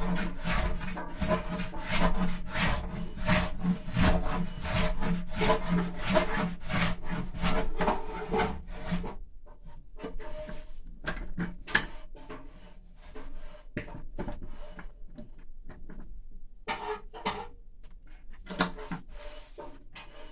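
Hand carving tool scraping mulberry wood in rhythmic strokes, about two a second, as the wall of a carved bowl is thinned. The strokes grow sparse about nine seconds in and pick up again near the end.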